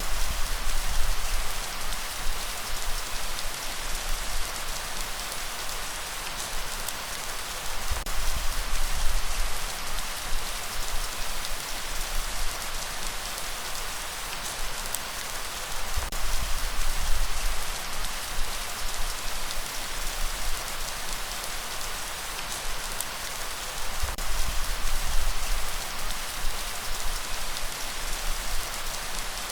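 Steady rainfall, a dense even hiss of drops, with a low rumble that swells and fades about every eight seconds.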